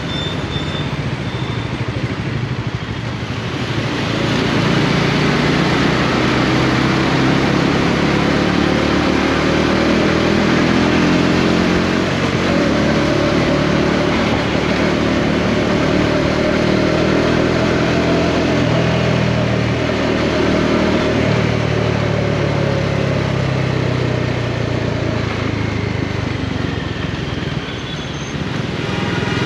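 Bajaj Dominar 400's single-cylinder engine under way, building revs from about four seconds in, with the pitch breaking and resettling a couple of times in the middle, then easing off near the end before picking up again.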